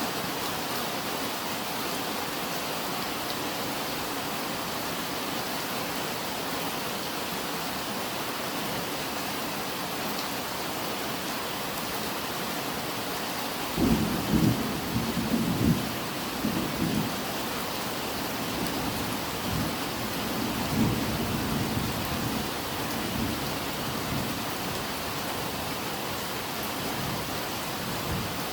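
Steady rain falling throughout. About halfway through, thunder starts suddenly and rumbles for several seconds before fading back under the rain.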